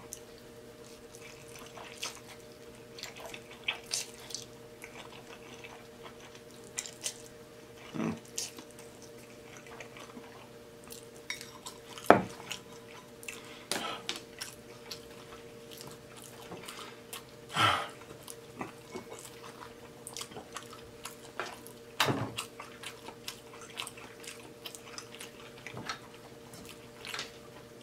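Close-miked chewing and lip-smacking of a man eating black bean noodles: scattered wet mouth clicks and smacks, a few louder than the rest, with the sharpest about twelve seconds in. A faint steady hum runs underneath.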